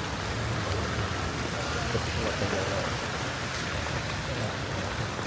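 Steady hiss of rain falling on a wet street, with a low rumble underneath.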